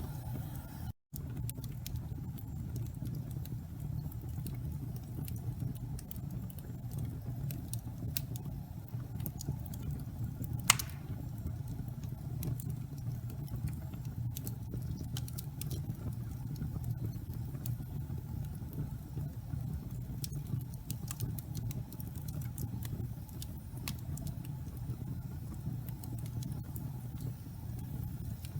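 Wood fire burning in a fireplace: a steady low rumble of flames with scattered small crackles and one loud pop about ten seconds in. The sound cuts out for a split second about a second in.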